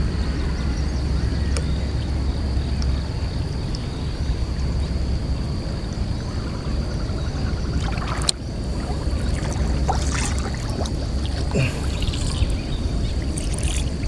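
Water trickling and splashing around a small boat, over a steady low rumble, with a few knocks from handling the gear, the sharpest about eight seconds in.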